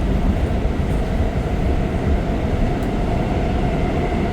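New York subway train running: a loud, steady rumble with a steady whine held at one pitch.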